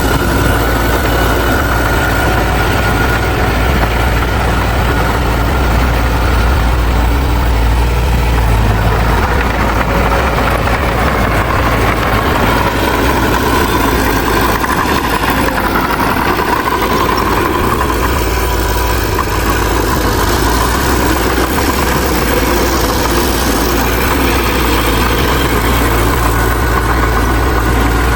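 Heavy diesel engine of earthmoving machinery running steadily, with a deep rumble and a faint whine that drifts in pitch.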